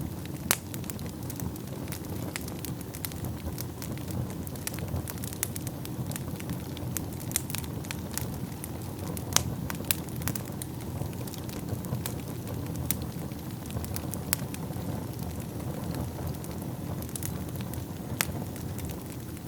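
Wood fire burning in a fireplace: a steady low rumble of flames with frequent sharp crackles and pops, a few louder snaps among them.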